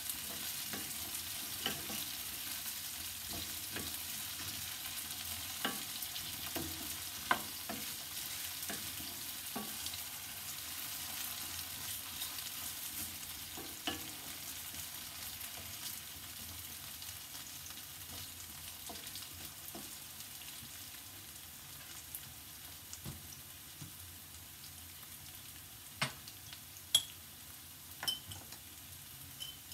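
Cubed potatoes sizzling in hot oil in a nonstick pan over a high gas flame, stirred with a wooden spatula that scrapes and clicks against the pan. The sizzle slowly grows quieter, and a few sharper knocks come near the end.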